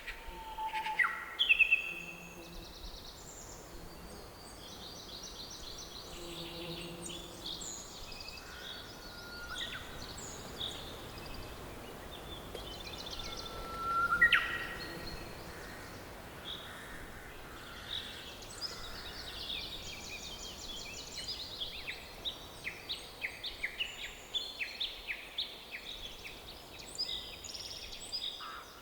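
Several songbirds chirping and singing in a forest, over a faint steady background hiss. Loud chirps come about a second in, a rising whistle halfway through, and a quick run of short repeated notes fills the last third.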